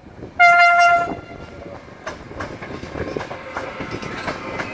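An electric locomotive's horn gives one short blast. Then the train rolls by with its wheels clacking over the rail joints, two or three clicks a second.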